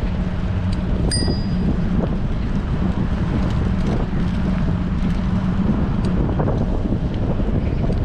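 Strong wind buffeting a bicycle-mounted action-camera microphone while riding, a loud, steady rumble. About a second in there is one short, bright ding.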